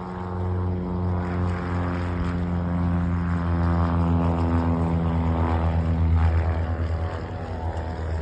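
A low-flying aircraft's engine drone passing close. It grows louder to a peak about six seconds in, then begins to fade.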